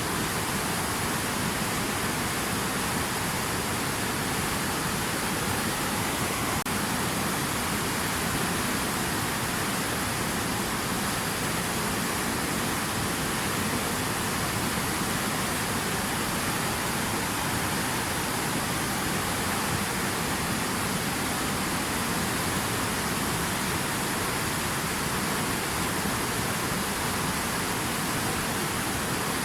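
Water rushing steadily, an even hiss and rumble with no separate splashes or drops standing out.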